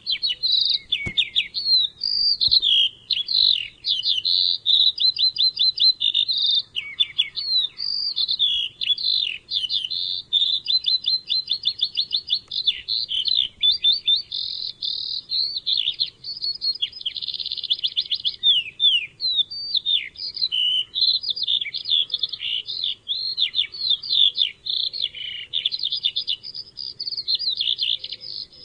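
A songbird, the bird called 'mutawwaq' in Arabic, singing a long, nearly unbroken song of rapid high trills, chirps and short whistled notes.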